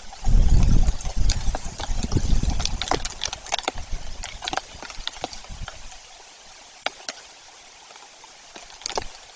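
Raindrops ticking irregularly on and around a nest camera over a steady hiss of rain. A loud low rumble runs for the first three seconds.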